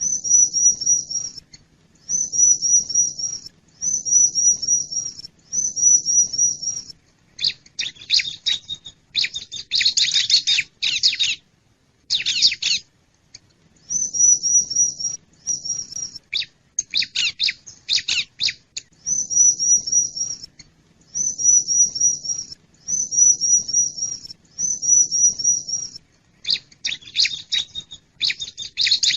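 Wild bar-winged prinia (ciblek) song used as a bird lure: high-pitched phrases of quickly repeated, slightly falling notes, each about a second long with short pauses between, alternating with clusters of sharp, harsh chips.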